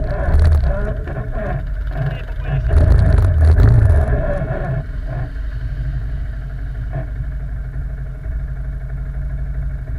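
ATV quad engine revving in surges for the first four seconds or so, then settling into steady running from about five seconds in.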